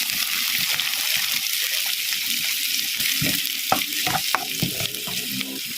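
Chopped onions, garlic and red bell pepper sizzling steadily in olive oil in a pan, stirred with a utensil that knocks and scrapes against the pan several times in the second half.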